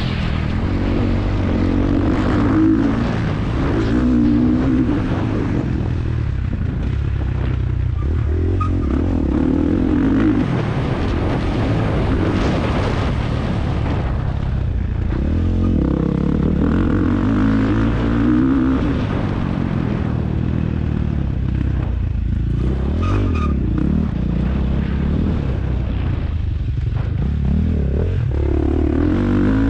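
MX1 motocross bike's engine being raced, revving up and falling off again and again as the rider opens and shuts the throttle, the pitch climbing and dropping every few seconds.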